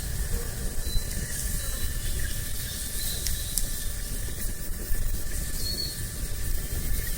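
Wood campfire hissing and crackling, with a few sharp pops, over a steady low rumble. A few short, faint high chirps come through, about a second in, around three seconds in and near six seconds.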